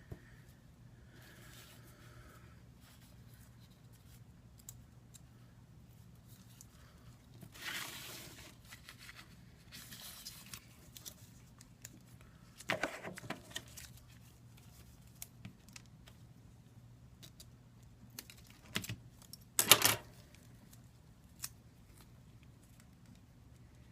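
Red adhesive tape for sealing the replacement iPad 2 glass being peeled from its backing and torn: a few short tearing and crinkling sounds, the loudest about twenty seconds in, over a faint steady hum.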